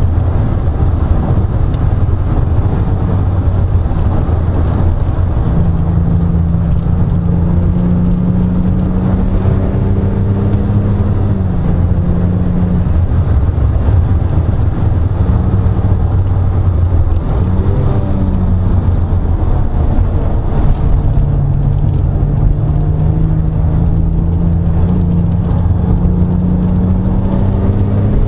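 Porsche 997 Turbo's twin-turbo flat-six heard from inside the cabin on track, its note climbing under throttle with an upshift about a third of the way in. Past halfway it lifts briefly with quick drops in pitch as it slows for a corner, then pulls up through the revs again, over steady road and wind noise.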